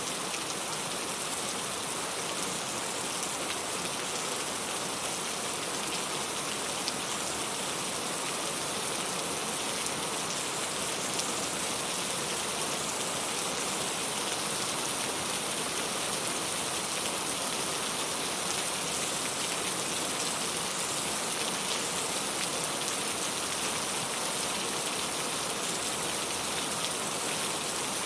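Steady rain falling, a constant even hiss with many fine drops pattering on a surface.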